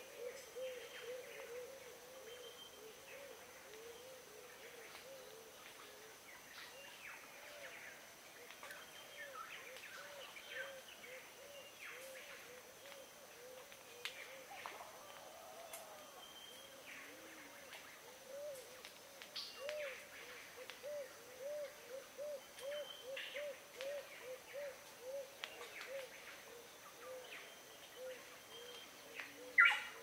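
Tongan birds calling. A low call note repeats about three times a second throughout, with scattered higher chirps and whistles over it and one louder, sharper call near the end.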